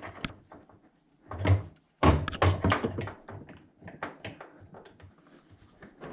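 Irregular knocks, thuds and clatter of objects and cupboard fittings being handled, with the loudest hits about one and a half and two seconds in.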